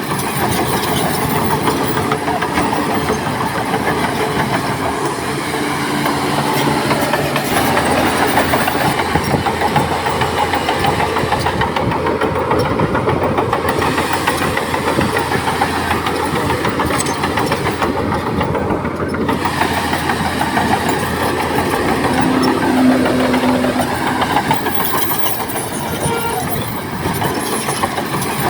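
Heavy diesel earthmoving machinery running steadily at close range: a bulldozer and dump truck working, engine noise continuous with brief changes in pitch.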